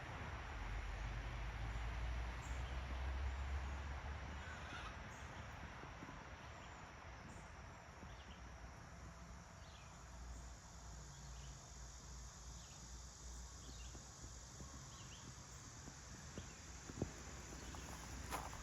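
Outdoor background: a steady low rumble and hiss, loudest in the first few seconds, with a few faint short high calls from birds or insects.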